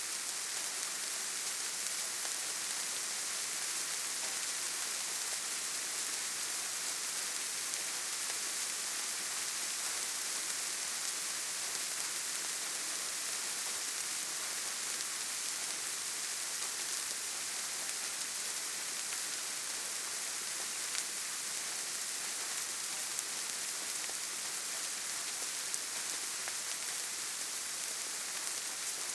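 Steady rainfall in a forest, an even hiss of many drops with an occasional faint patter of single drops.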